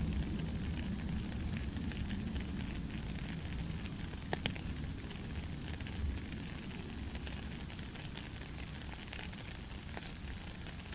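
Steady white-noise sleep sound, a dense rushing hiss heaviest in the low range with a faint crackly texture, and a sharp click about four seconds in.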